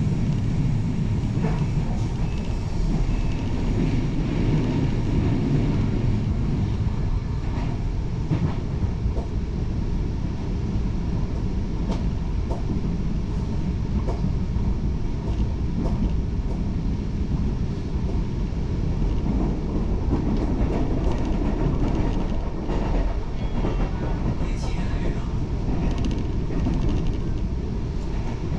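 Taiwan Railway train running between stations, heard from inside the carriage: a steady low rumble with scattered faint clicks from the wheels on the track.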